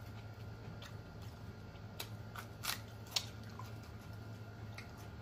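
Close-miked eating sounds: a handful of sharp, crisp crunches and mouth clicks, bunched about two to three seconds in, over a steady low hum.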